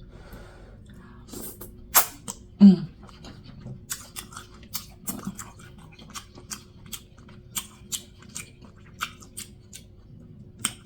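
Close-up mouth sounds of a person eating a buttery seafood boil: wet chewing and lip-smacking, a run of short irregular smacks and clicks, with a brief hum of the voice near the three-second mark.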